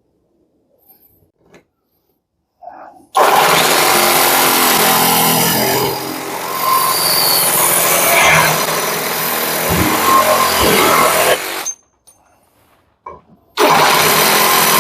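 A brushless cordless reciprocating (sabre) saw cutting 2 mm sheet metal: a loud, harsh run of about eight seconds that stops abruptly, then a few clicks, and the saw starts cutting again near the end.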